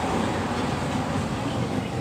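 Steady store ambience: a continuous low rumbling hum with faint, indistinct voices in the background.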